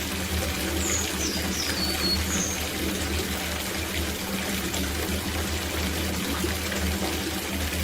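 Water running steadily into a copper bathtub as it fills.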